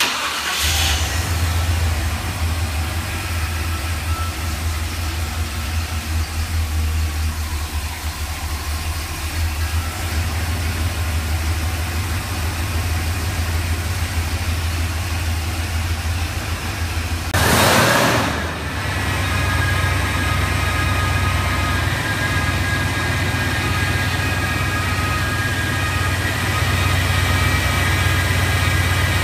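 Jeep Wagoneer engine idling steadily with a low hum. A short, louder rushing burst comes about 18 seconds in.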